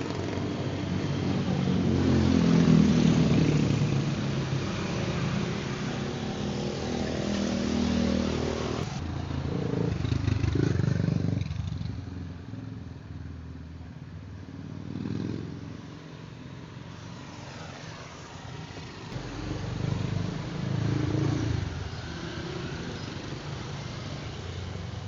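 Sport motorcycle and car engines running and revving, swelling and fading in loudness, with an abrupt change of sound about nine seconds in.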